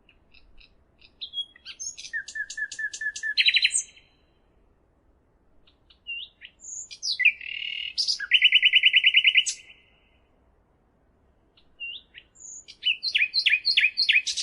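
A songbird singing three loud phrases of varied chirps, each ending in a fast trill, with pauses of about two seconds between phrases.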